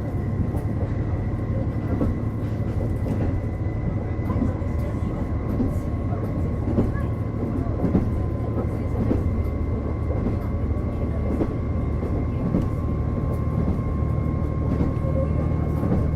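Running sound inside a KiHa 48 diesel railcar: the diesel engine's steady low drone, with a thin whine that rises slightly as the car runs along. Scattered clicks come from the wheels on the track.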